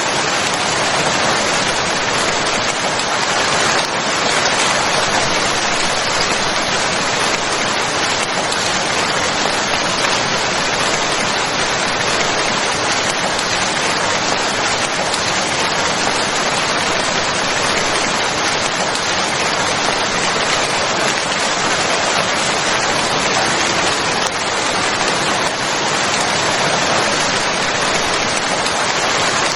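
Steady rainfall, an even, constant hiss of rain falling on surfaces, without breaks.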